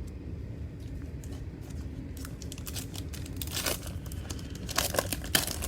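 Trading cards being handled and a cellophane pack wrapper crinkling: scattered rustles and clicks, busiest in the second half.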